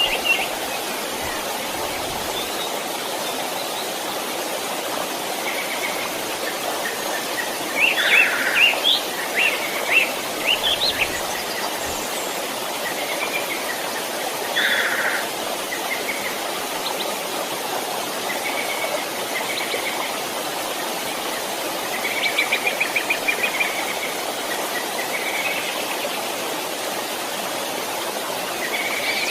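Small stream running steadily, with birds chirping over it: a cluster of calls about a third of the way in and a quick repeated trill later on.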